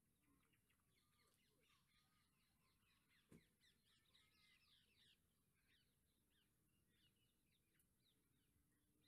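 Very faint birdsong: many short, high chirps and twitters from several birds, busiest around four to five seconds in, with a single soft click about three seconds in.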